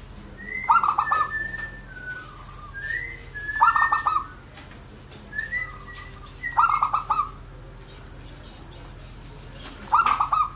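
Zebra dove (perkutut) cooing: four loud, rapid coo phrases about three seconds apart, with softer, higher whistled notes between them.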